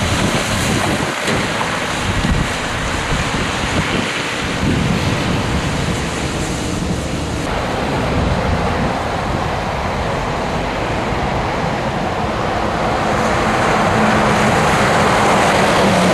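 Steady wind rush and road rumble from a Scania truck on the move, with wind buffeting the microphone; the noise swells a little near the end.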